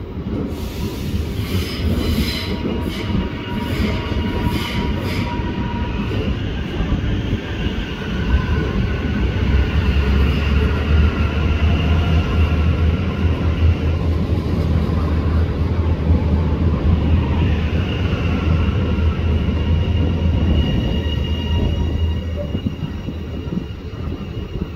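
Electric High Capacity Metro Train passing along the platform. There are clicks and a high tone in the first few seconds, then a heavy low rumble of wheels on rail that is loudest in the middle as the cars go by, with thin high whining tones over it. It eases off near the end as the train moves away.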